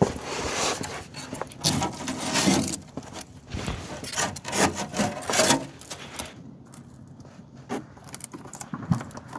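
An unscrewed underside panel being pulled off a truck camper: irregular scraping and rubbing as it is worked free, loudest over the first six seconds, then quieter with a few scattered knocks.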